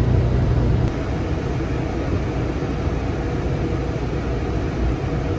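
Steady low rumble of a moving road vehicle, eases slightly about a second in.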